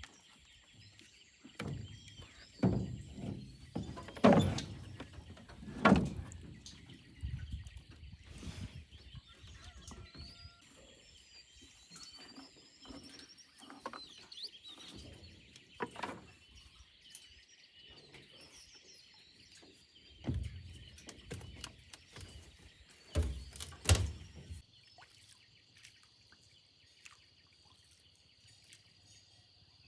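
Birds chirping over a steady high drone, broken by a series of heavy knocks and thumps, loudest about 4, 6 and 24 seconds in.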